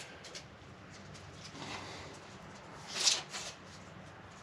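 A few short scuffing, rustling sounds, the loudest a quick cluster of two or three about three seconds in, over a faint steady low background.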